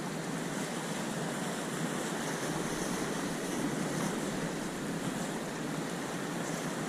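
Sea waves washing in a steady rush, with wind buffeting the microphone.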